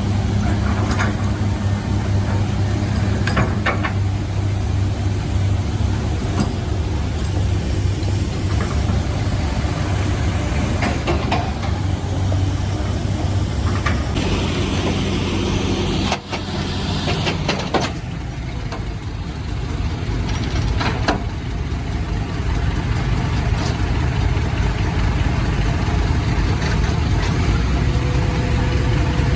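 Heavy diesel engines of logging trucks and machinery running steadily, with scattered knocks and clanks. The sound changes abruptly about 16 seconds in.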